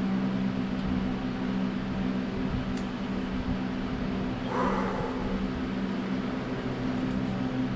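A steady low machine hum throughout, with a short louder noise about halfway through.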